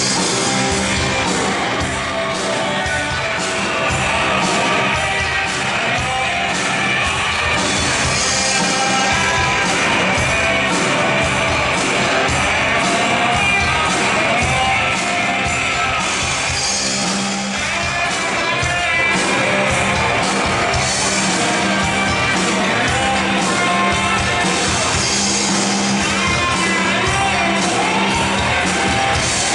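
Rock band playing live and loud: a steady drum beat, electric guitars and shouted singing.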